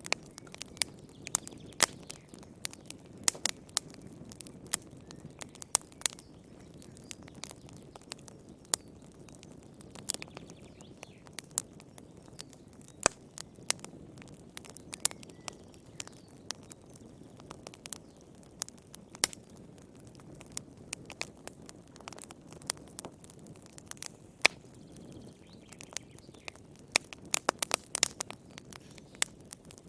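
Wood campfire crackling and popping: sharp, irregular snaps over a low, steady burning hiss, with a quick cluster of pops near the end.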